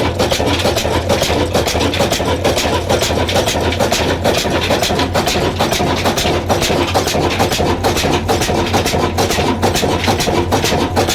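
Vintage Ruston Hornsby diesel engine running steadily: a low hum under a dense, fast, even clatter.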